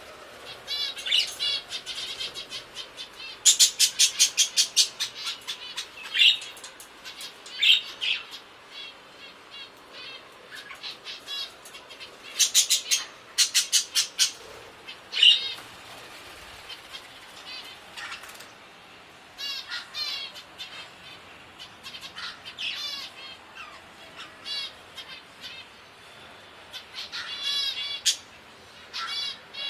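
Small birds chirping and twittering: scattered short high calls and several quick runs of rapid repeated chirps, with short pauses between.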